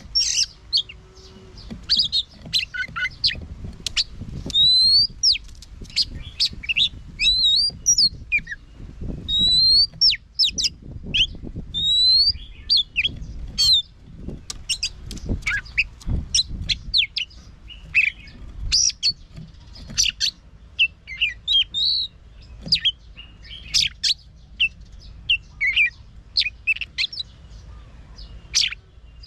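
Oriental magpie-robin singing: a continuous, varied run of clear upslurred whistles and short quick notes, phrase after phrase.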